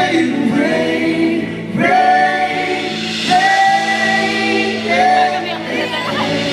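Live pop ballad: a wordless vocal line of long held notes over the band's steady accompaniment, recorded from the audience.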